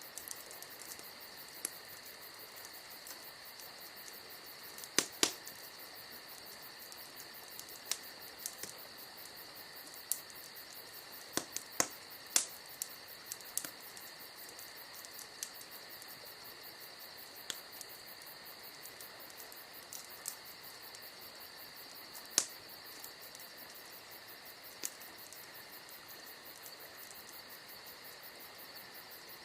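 Wood fire crackling with scattered sharp pops, the loudest about five, twelve and twenty-two seconds in, over crickets chirping steadily.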